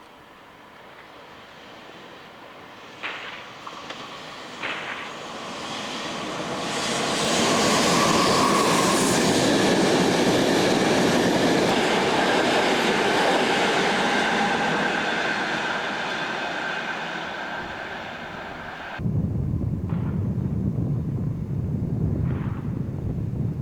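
A train approaching and passing on the line, wheels clicking over rail joints as it nears, loudest a little before the middle and then fading away. At about nineteen seconds the sound cuts suddenly to a lower, steady rumble.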